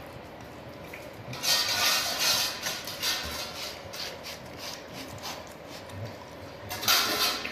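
Pit bull licking and eating from its food bowl, in two bursts of quick licking noises: one about 1.5 s in and one near the end.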